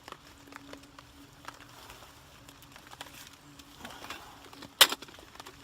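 Scattered light ticks and patters over a faint steady hum, with a rustle of handled gear and one sharp clack of a hard object set down near the end.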